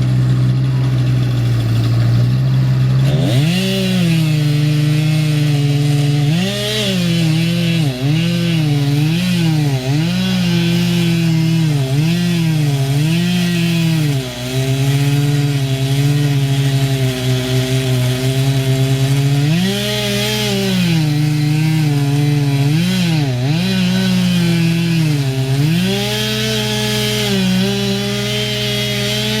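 Chainsaw revving up about three seconds in, then cutting wood, its engine pitch dipping under load and climbing again again and again. Underneath runs the steady low hum of another idling engine.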